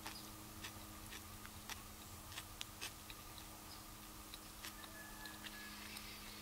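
Close-up chewing of a sandwich: faint, irregular mouth clicks and small crunches over a steady low hum.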